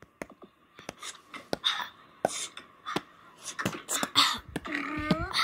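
Beatboxing: scattered sharp mouth clicks and short breathy percussive bursts at an uneven rhythm, with a brief rising vocal sound near the end.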